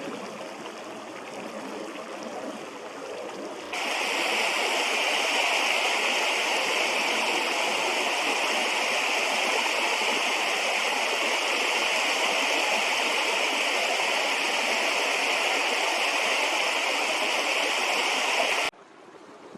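Steady rushing of flowing river water, an even noise with no pauses. It grows much louder about four seconds in and drops away abruptly just before the end.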